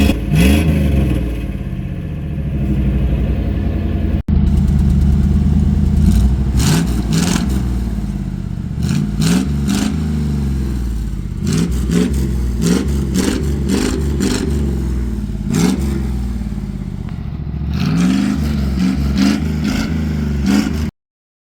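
Squarebody Chevrolet K5 Blazer engine running with its muffler and catalytic converter removed, idling and being revved again and again, the pitch climbing and falling with each rev.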